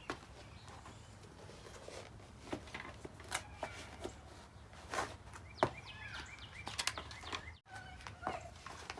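Faint scattered clicks and knocks over a low steady hum, with a few short chirping calls in the second half.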